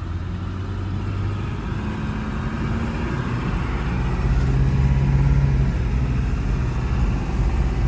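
A vehicle engine running under way, heard from inside the cab with road noise. The engine note steps up about two and four seconds in and gets louder.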